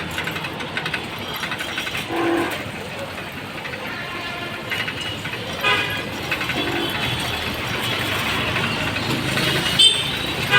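Steady rumbling noise of a moving vehicle, with short pitched tones breaking through now and then.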